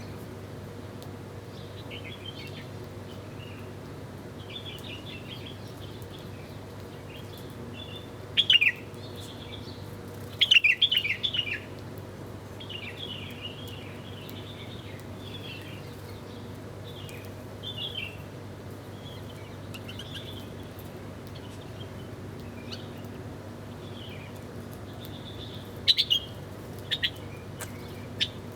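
Small birds chirping in many short calls, with a few louder, sharp chirps about eight and ten seconds in and again near the end, over a steady low background hum.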